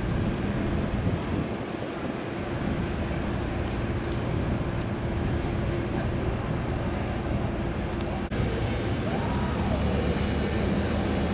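Steady mechanical drone with a low hum, broken by a brief dropout about eight seconds in.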